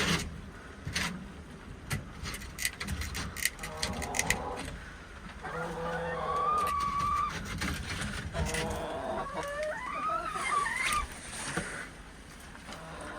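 Domestic chickens calling: a run of drawn-out, wavering hen calls in the second half, some rising in pitch near the end, after a stretch of many sharp little taps and clicks.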